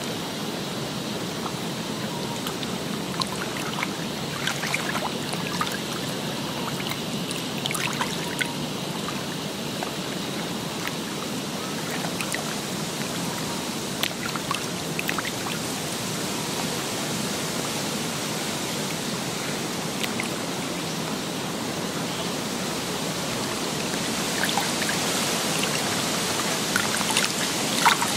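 Steady rush of running water with scattered small trickles and drips, growing a little louder near the end.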